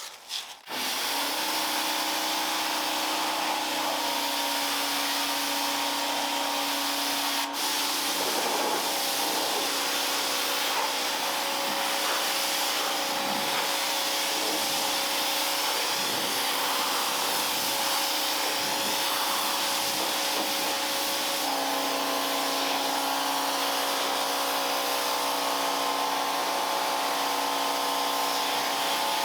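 Electric high-pressure washer running steadily, its motor humming under the hiss of the water jet as the car is rinsed with plain water. About seven seconds in there is a click and the hum shifts in pitch, and it shifts again about twenty seconds in.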